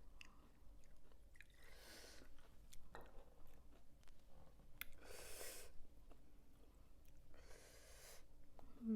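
Faint chewing of crunchy squid salad with small mouth clicks, broken by three soft breaths about three seconds apart.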